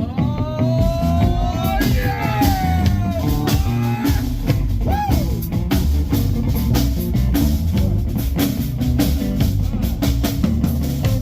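Live blues-rock band playing: drum kit and bass under a lead line whose notes bend and slide up and down in the first few seconds.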